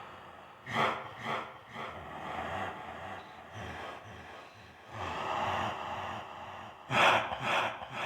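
A person's voice imitating werewolves, with added reverb and echo: breathy huffs and snarls rather than howls. Three short ones come about a second in, a longer breathy stretch follows past halfway, and two loud, sharp ones come near the end.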